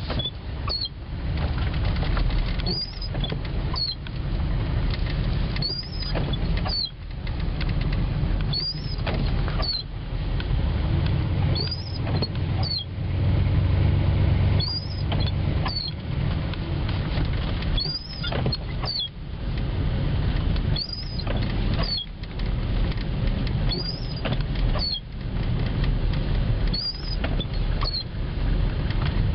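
Inside a four-wheel-drive vehicle's cab: steady engine and tyre rumble while driving through snow on a dirt road, with squeaky windshield wipers giving a pair of short high squeaks about every three seconds as they sweep.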